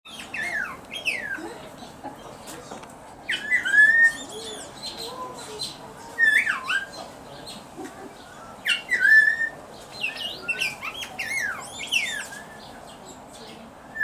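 A bird calling in bursts of clear whistled notes that swoop up and down, every two to three seconds, with short clicks and chirps scattered between.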